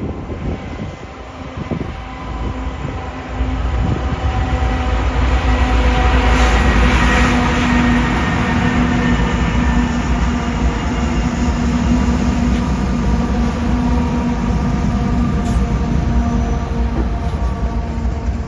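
A train passing: its low rumble swells about three and a half seconds in and then runs on steadily, with a steady hum over it.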